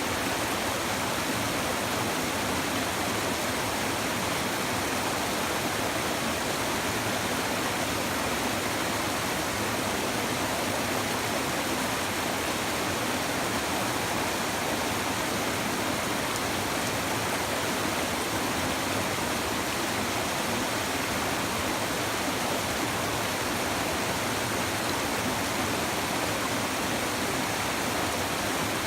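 A river's shallow water babbling steadily over stones, a continuous even rush of flowing water.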